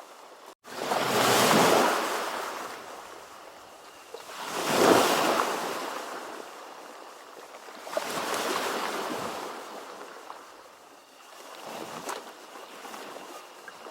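Ocean waves washing in, the surf swelling and fading four times, about every three and a half seconds. The sound drops out for a split second about half a second in.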